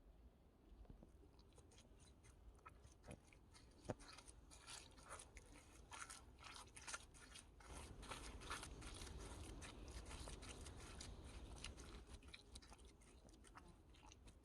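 Bare feet treading in wet mud, making faint irregular squelching and crackling that grows busier and a little louder about halfway through.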